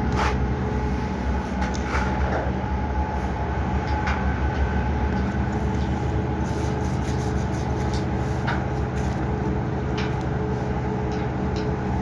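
Steady running noise of a vehicle or similar machine: a constant low hum with a few steady tones, and scattered light clicks and knocks.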